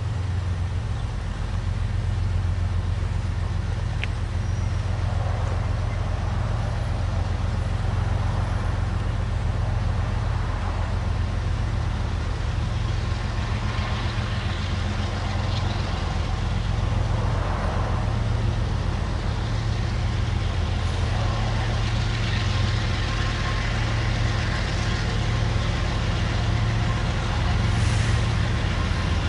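Diesel freight locomotives running with a steady low engine drone, and a rushing noise above it that rises and falls several times, as an autorack freight train rolls by.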